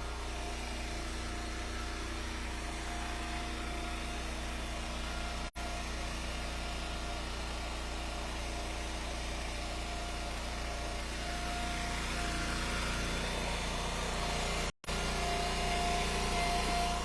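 Eastonmade Ultra hydraulic wood splitter's gas engine running at a steady speed. The sound cuts out briefly twice.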